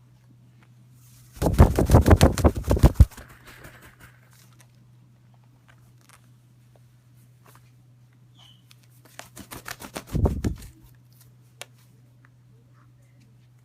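African grey parrot chick flapping its wings in two bouts of rapid wingbeats, a loud one about a second and a half in and a second one near ten seconds in that starts softer and swells. A faint steady low hum runs underneath.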